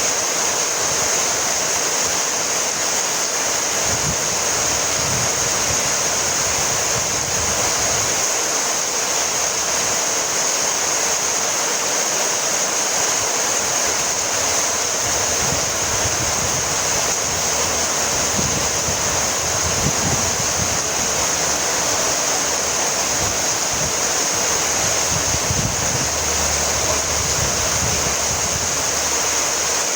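Heavy rain falling steadily, a constant even hiss of downpour with occasional low rumbles of wind.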